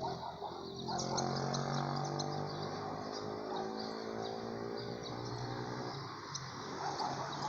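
Many small birds chirping, with quick high calls overlapping throughout. Under them runs a low hum that sinks slightly in pitch and fades about six seconds in.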